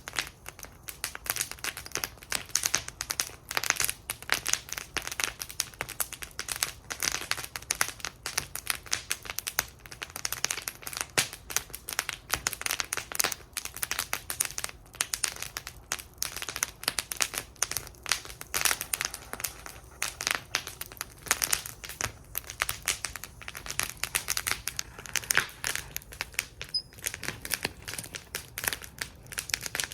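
Wood fire burning in a fire bowl, crackling and snapping without a break, with many small sharp pops at irregular moments.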